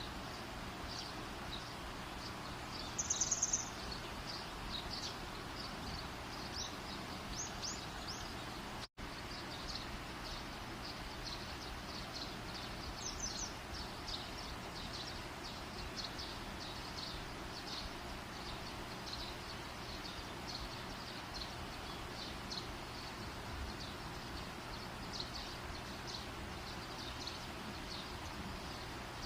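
Wood fire crackling, with a steady hiss under many small irregular pops and snaps. A short, louder high-pitched burst about three seconds in and a few faint high chirps stand out, and the sound cuts out for an instant about nine seconds in.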